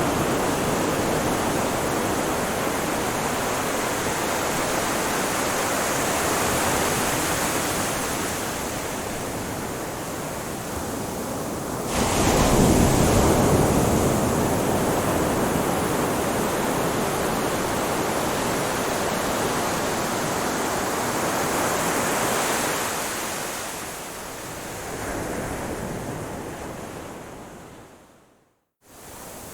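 Ocean surf: a steady wash of waves on a shore, with a louder wave breaking about twelve seconds in. Near the end the sound fades out to a moment of silence and then comes back.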